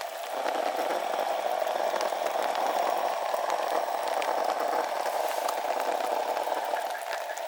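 Steady rain pattering, with many scattered sharper drop hits.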